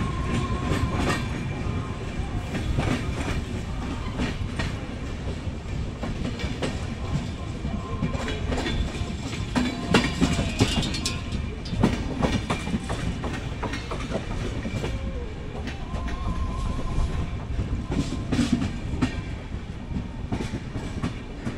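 Indian express train running along the line: a steady rumble with irregular clickety-clack of the wheels over rail joints.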